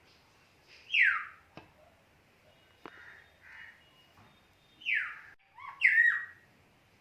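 A bird calling: three loud, short calls that slide quickly downward in pitch, about a second in and again near the end, with fainter calls between them. Two sharp clicks are also heard.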